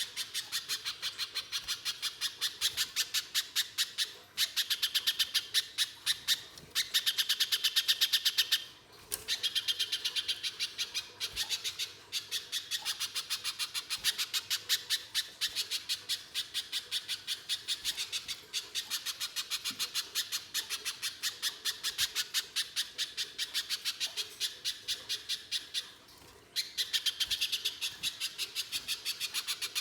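Pijantung pisang (spiderhunter) singing in long runs of rapid, evenly repeated sharp notes, several a second, broken by short pauses every few seconds.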